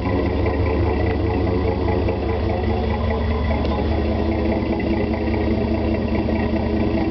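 Chevy 4.3-litre Vortec V6 idling steadily in drive through a Flowmaster 40 series dual exhaust with a high-flow cat and the resonator removed, giving a low, even rumble. In gear the idle sits lower than in park.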